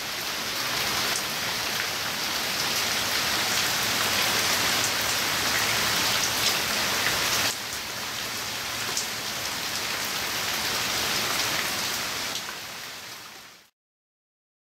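Steady rain falling, a dense even patter with a few sharper drop hits. It dips a little in level about halfway through, then fades out about a second before the end.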